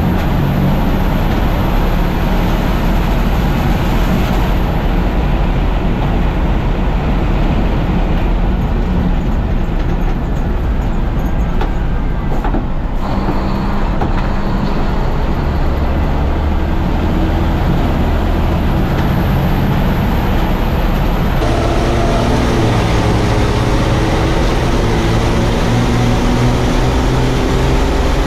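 Racing truck engines running hard under load, a loud, dense drone. Near the end the engine pitch climbs steadily as a truck accelerates.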